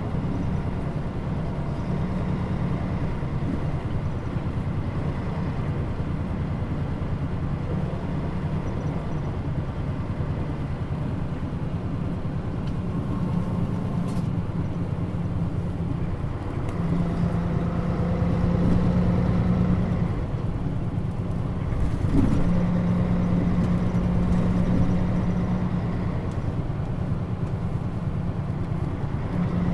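Mitsubishi Fuso Aero Star bus (KL-MP35JM, Nishi Nippon Shatai body) running, heard from inside the passenger cabin: a steady engine hum with road noise, the engine note swelling and easing a few times.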